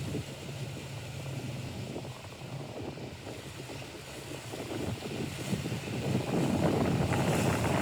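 Wind rushing over the microphone and water splashing around a small boat, over a steady low hum. The rush builds louder over the last couple of seconds.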